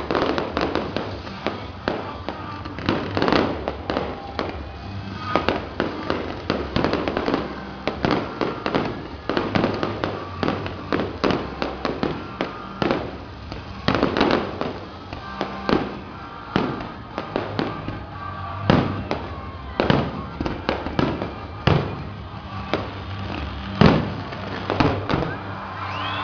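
Fireworks display: aerial shells bursting in a dense, irregular run of bangs, several a second at times, with background music underneath.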